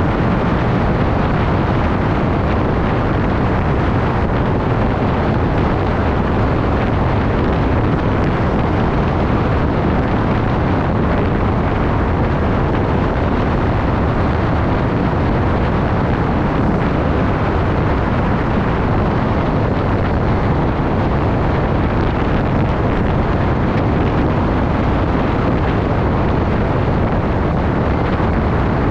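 Steady rush of wind buffeting the microphone during a ride, loud and unbroken, heaviest in the low end.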